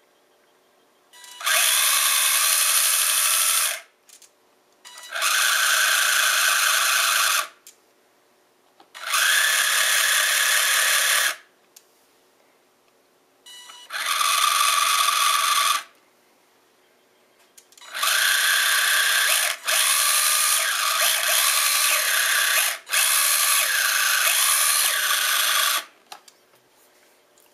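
Losi 1/24 Micro Rally RC car's small electric motor and gears whining in bursts of throttle: four runs of about two seconds each, then a longer run of about eight seconds with two brief drops.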